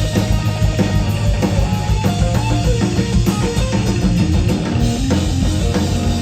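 A rock band playing an instrumental passage: electric guitar over bass and a drum kit, with no singing.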